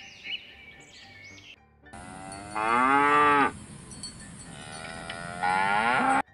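Blue wildebeest lowing: two long, moo-like calls about three seconds apart, each dropping in pitch at its end, over a faint steady hiss. Near the start, before them, there are a few short bird chirps.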